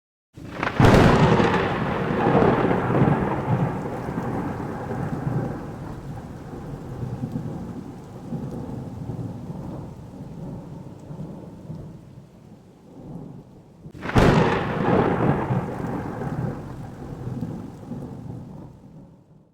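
Two thunderclaps, each a sudden sharp crack followed by a long rumble that slowly fades: the first about a second in, the second about fourteen seconds in. The sound cuts off abruptly near the end.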